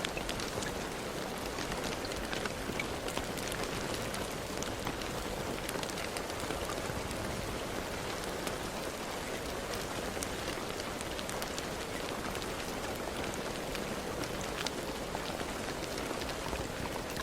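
Steady rain falling, with a dense hiss and many small drop ticks pattering on a surface.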